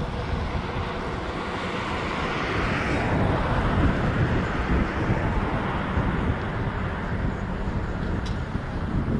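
Steady engine noise of a vehicle in motion, with wind rumble on the microphone; a broad hiss swells and fades about two to three seconds in.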